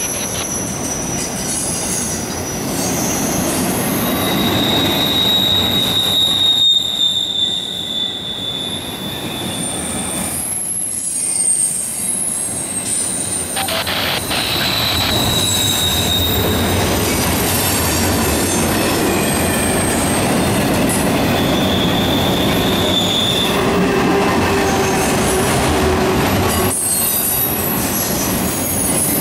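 Auto rack freight cars rolling past: a steady rumble of steel wheels on the rail, with high-pitched wheel squeals coming and going over it, each lasting a few seconds.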